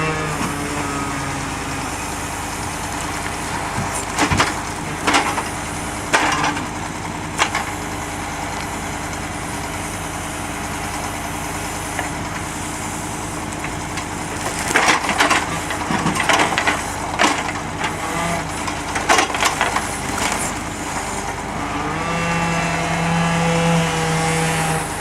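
Logs being loaded onto a KAMAZ timber truck: an engine runs steadily under the work and revs up near the end, while heavy wooden clunks and knocks of logs dropping and settling in the bunks come in scattered strikes and then a dense cluster in the middle.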